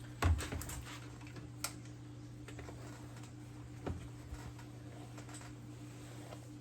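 A few light plastic-and-metal clicks and taps from handling a hot-staple plastic repair gun and its staples, over a steady low hum.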